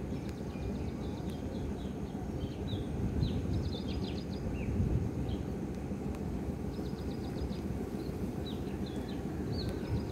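A train's steady low rumble, with birds chirping over it and twice giving a quick run of ticking notes.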